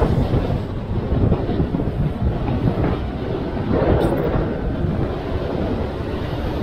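Wind rumbling and buffeting on the microphone of a moving camera, with road and vehicle noise underneath.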